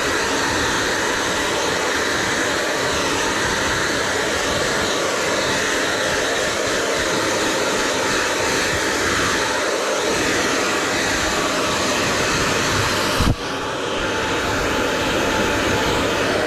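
Handheld hair dryer blowing steadily, a loud even rushing hiss. A sharp click about 13 seconds in, after which the sound briefly dips and then settles back.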